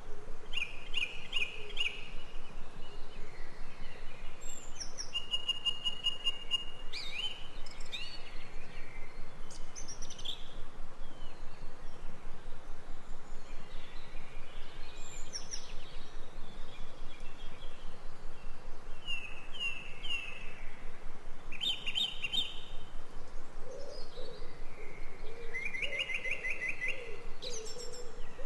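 Forest birds singing and calling: short chirps and quick trills coming one after another, over a steady background hiss, with a lower repeated call near the end.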